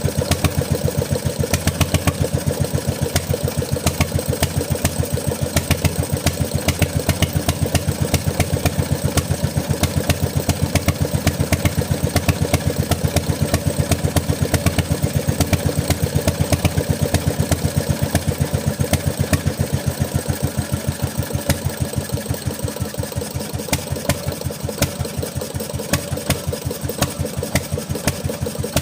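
Bernard Moteurs W14 15 HP engine running steadily, with an even, rapid firing beat that eases slightly softer near the end.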